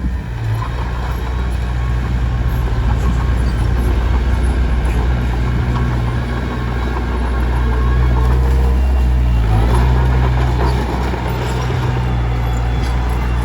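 Komatsu D21P bulldozer's diesel engine running steadily under load, a little louder a few seconds past the middle, with scattered faint clanks.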